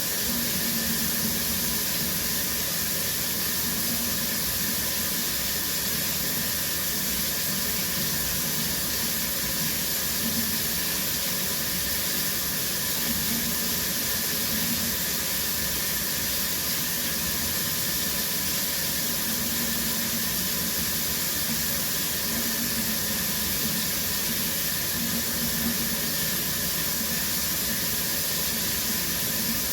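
Shower running steadily: a continuous, even hiss of water spray.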